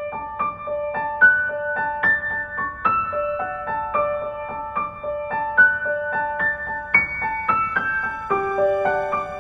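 Background music: a gentle piano melody of evenly struck notes, a few per second.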